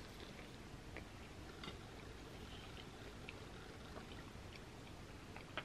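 Faint, wet mouth sounds of chewing a bite of cheesy quesadilla: soft scattered clicks and smacks over a low hiss.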